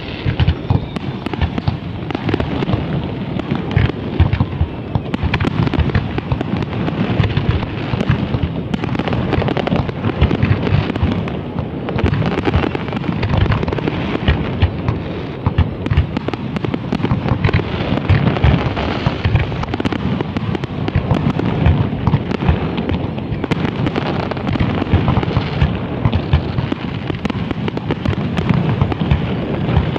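Aerial fireworks display: a continuous barrage of overlapping shell bursts and launch bangs with no break, the deep booms strongest.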